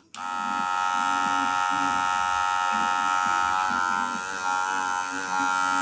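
Wahl Senior cordless hair clipper running with a steady buzzing hum, after a new motor and battery and still on its old blade. It cuts out for an instant right at the start, then runs on, its buzz wavering a little past the middle.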